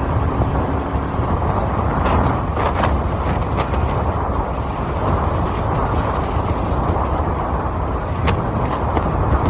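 Steady rush of wind and road noise on a moving motorcycle's microphone, with a few faint brief ticks.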